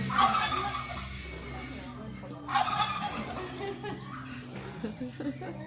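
Turkey gobbling twice, each a short rattling call under a second long, over faint background music.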